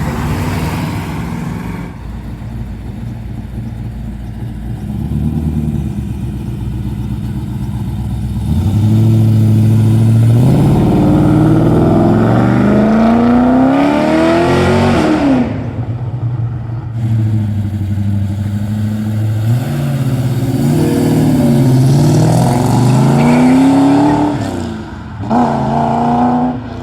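Car engines pulling away from a standstill under hard acceleration. After a low, steady running note, the revs climb in two long rising sweeps, each ending in a sharp drop, and a short third climb follows near the end.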